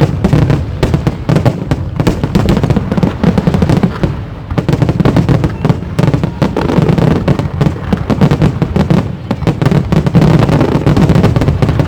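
A fireworks display: a dense, continuous barrage of rapid bangs and crackling shells bursting, with a brief lull about four seconds in.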